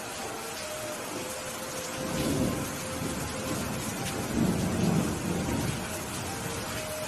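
Steady rain with thunder rumbling low, swelling twice: once about two seconds in and again, louder, around the middle.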